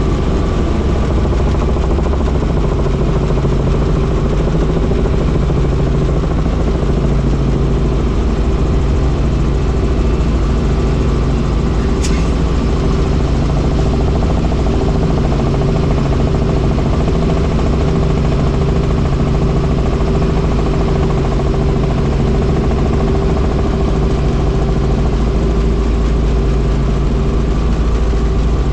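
Helicopter engine and rotor running steadily, with a brief click about twelve seconds in.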